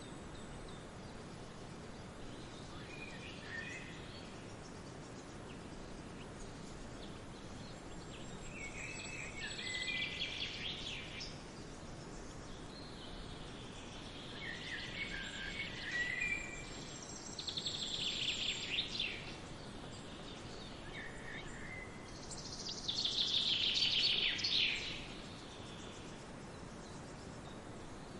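Songbirds chirping and singing in short bouts every few seconds, over a steady background hiss. The loudest bout is near the end.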